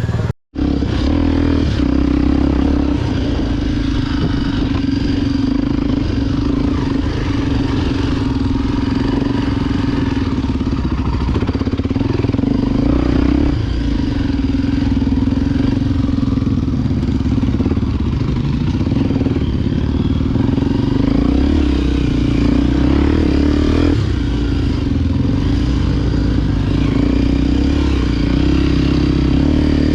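Honda XR Tornado 293 single-cylinder four-stroke trail bike engine running steadily while riding off-road, with a brief gap about half a second in.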